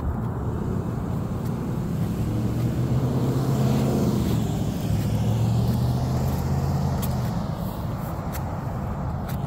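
An engine passing by: a steady low hum that grows louder to a peak about four to six seconds in, then fades.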